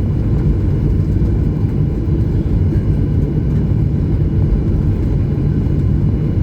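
Steady low cabin rumble of a Boeing 737-900 taxiing, heard from inside the passenger cabin, with its engines at low taxi thrust.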